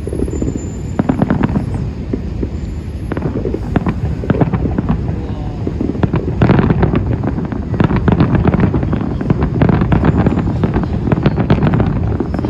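Fireworks salute going off: a rapid series of bangs and crackles over a steady low rumble, growing denser and louder about halfway through.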